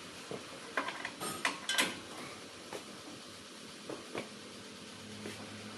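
Sharp metallic clicks and clinks of hand tools at work on a car's front suspension, several close together about one to two seconds in and a couple more later. A low steady hum starts near the end.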